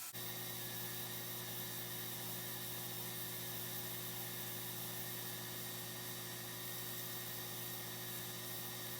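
Steady electrical hum with a constant hiss, unchanging throughout, starting abruptly as a new shot begins.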